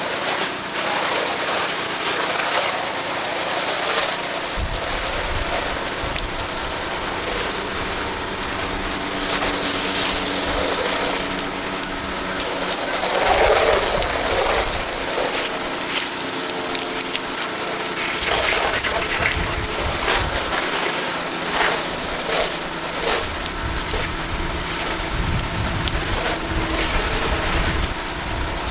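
Pressure washer spraying water against a house: a steady hiss and splatter of water, with a faint steady hum of the machine underneath.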